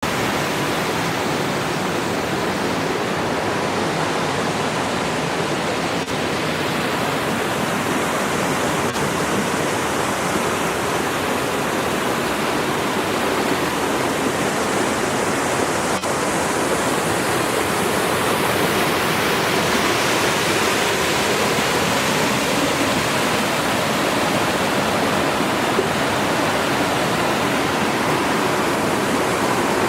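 Steady rushing of a waterfall and river water pouring over boulders, growing slightly louder and hissier a little past the middle.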